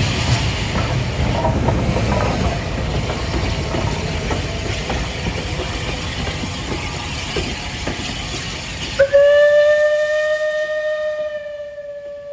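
Steam train running, a dense rushing noise with a low rumble. About nine seconds in the sound changes abruptly to a steam locomotive's whistle: one long steady blast that is still sounding at the end.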